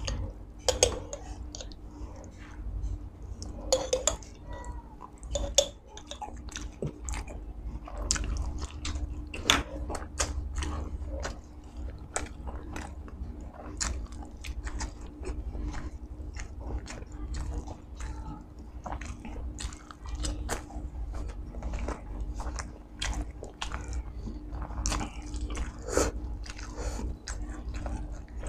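Close-miked mukbang eating: chewing and biting mouthfuls of spicy chicken isaw (chicken intestines) with rice, eaten by hand, with many short sharp mouth clicks and smacks throughout.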